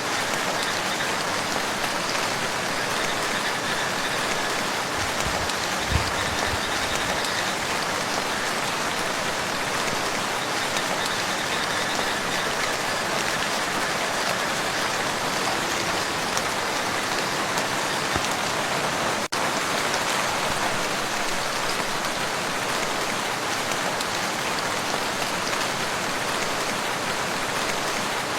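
Steady rain falling on a lake's surface, an even hiss of many drops.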